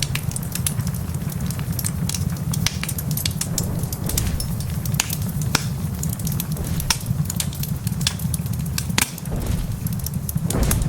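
Wood fire crackling in a fireplace, with frequent sharp pops and snaps, over a steady low rumble.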